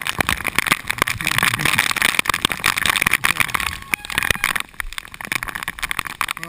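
Heavy typhoon rain hitting the housing of a head-mounted GoPro Hero2: a dense, irregular patter of drop impacts over a rain hiss, easing briefly about two-thirds of the way through.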